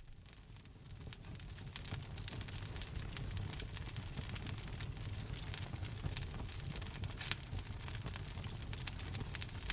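Wood fire burning in a fireplace: a low rumble with a thick run of small crackles and sharp pops, fading in over the first second or two. One louder pop comes about seven seconds in.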